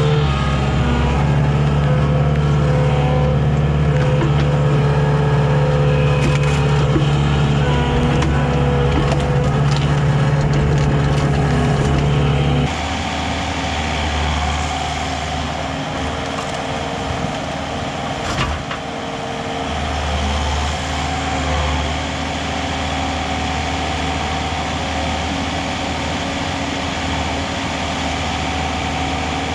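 Komatsu skid steer's diesel engine running steadily under work. Its pitch and loudness drop abruptly a little before halfway. A single sharp crack comes about two-thirds of the way through.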